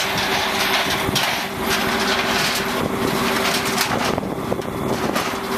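Vehicle engine running steadily, a constant hum under a broad rushing noise, while a new car is unloaded from a car-carrier truck.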